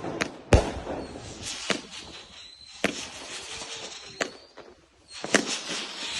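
Firework battery shots bursting in the air: sharp bangs roughly a second apart with crackling between them, and a faint high whistle in the middle. A quick run of bangs comes near the end.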